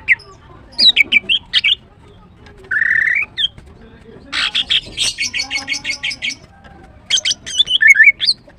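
Female greater green leafbird calling: bursts of quick, sweeping high chirps, a short buzzy note about three seconds in, then a rapid run of clipped notes for about two seconds, and another burst of chirps near the end.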